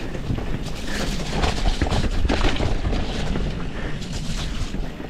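Mountain bike descending a rough trail at speed: wind buffets the action camera's microphone over a constant tyre rumble, with frequent clattering knocks from the bike hitting bumps.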